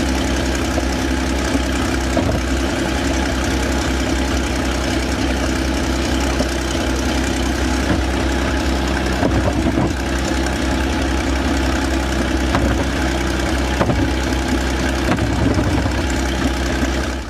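Maybach HL230 23-litre V12 tank engine running steadily at idle.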